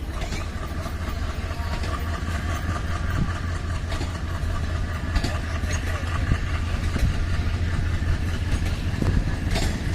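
Train at the station platform: a steady low rumble from the locomotive and coaches, with faint held tones above it and occasional sharp metallic clicks.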